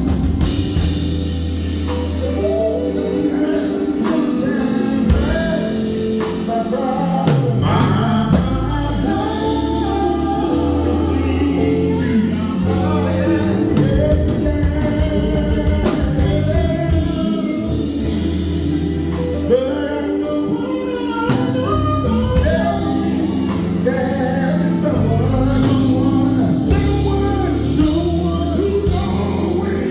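Gospel group singing with a live band, bass notes and drums underneath the voices.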